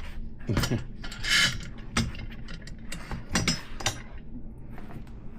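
Irregular metallic clicks and short scrapes of hand work on a solid 3/8-inch BMX axle as a cone nut is run up its thread, with a ratchet-like clicking.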